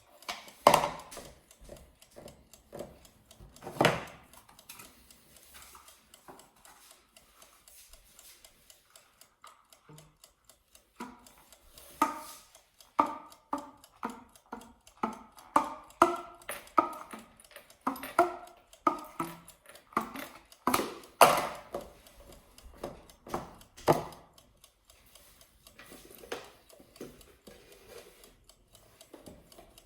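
Sounds played by hand on a jacket: a couple of sharp clicks, then a run of short, pitched tapping notes at about one or two a second, each with a brief ring, dying away near the end.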